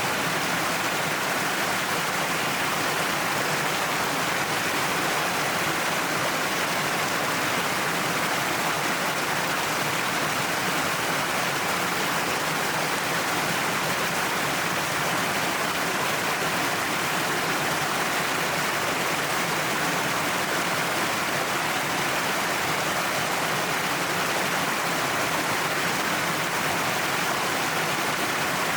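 Waterfall pouring down a cliffside, a steady, even rush of falling water.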